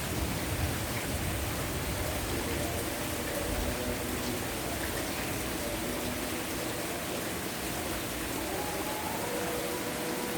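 Heavy rain falling, a steady even hiss. Faint held tones that step in pitch, like distant music or a voice, rise over it in the last few seconds.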